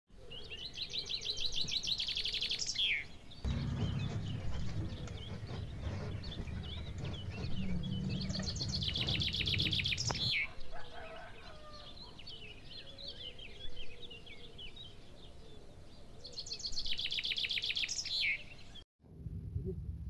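Birdsong: a bird repeats a fast trilled phrase three times, each ending in a falling slur, with softer scattered chirps between. A low rumble runs underneath for several seconds in the first half, and the sound cuts off abruptly near the end.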